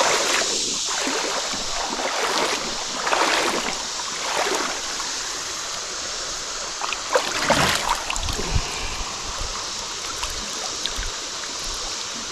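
Flood-swollen creek water rushing steadily, with several louder irregular splashes and swishes coming and going.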